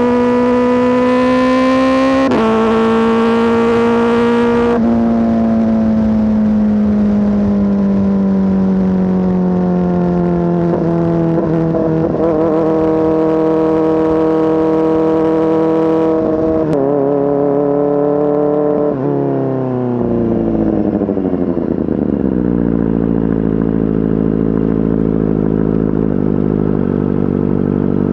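Kawasaki ZX-4RR's inline-four engine through an aftermarket SC Project S1 exhaust, loud. It revs up through a gear change about two seconds in, then its pitch falls slowly as the bike slows. After two more abrupt changes it drops and settles into a steady low note near the end.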